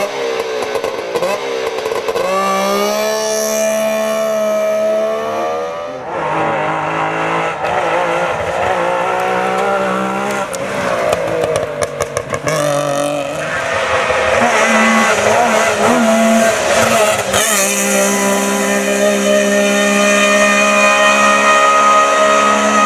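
Wartburg 311's three-cylinder two-stroke engine revving hard as the rally car drives past, its note climbing and dropping repeatedly. The sound changes abruptly several times where clips are joined.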